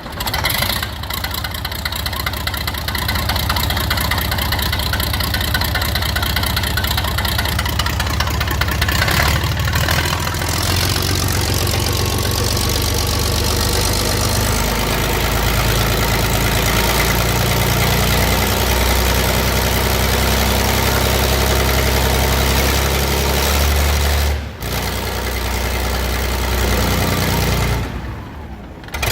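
Volvo A25C articulated dump truck's diesel engine starting and running. It drops out briefly about 24 seconds in and goes quieter near the end.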